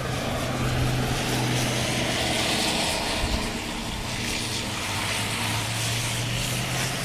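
A vehicle passing along a wet, snow-covered street, its rushing noise swelling to a peak about halfway through and then fading, over a steady low engine hum.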